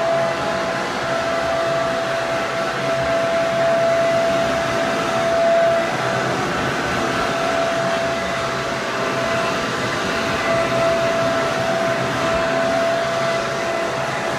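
Hair dryer running steadily: a constant rush of air with a steady whine from its motor and fan.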